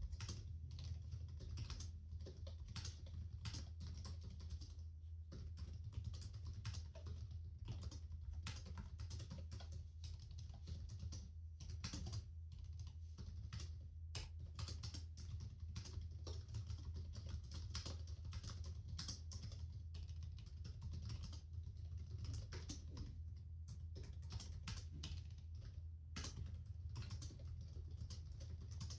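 Continuous typing on a computer keyboard, a fast, unbroken run of key clicks over a steady low hum.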